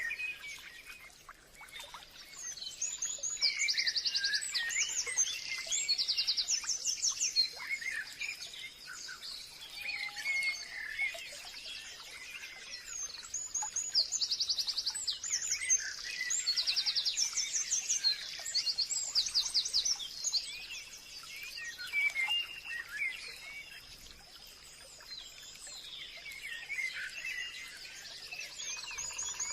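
Several songbirds singing and calling together, with rapid trills and quick chirping notes overlapping. The singing is busiest in two stretches, a few seconds in and around the middle, and a faint steady high tone runs underneath.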